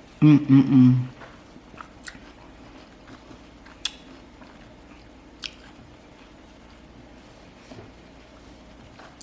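A person eating watermelon: faint chewing with a few sharp, wet mouth clicks spaced a second or two apart. It opens with a brief vocal sound in the first second.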